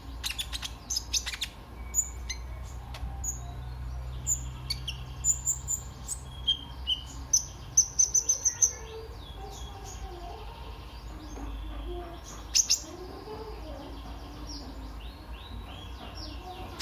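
A kolibri ninja, a small sunbird, singing: quick, high, sharp chirps and short trills, with a fast run of notes about eight seconds in.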